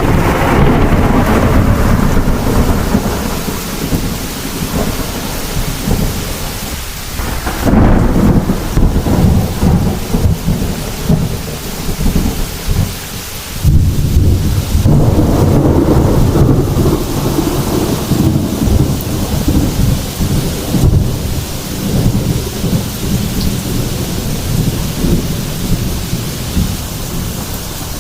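Heavy thunderstorm: rolling thunder rumbling low over steady rain. The thunder swells in long rolls: one at the start, another at about eight seconds, and a third at about fourteen seconds.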